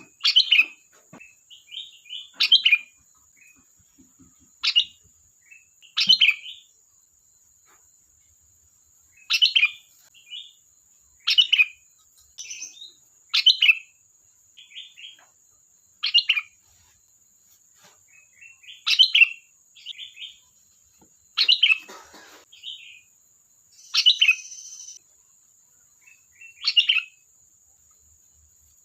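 Sooty-headed bulbul (kutilang) singing: short, bubbly chattering phrases repeated about every two to three seconds.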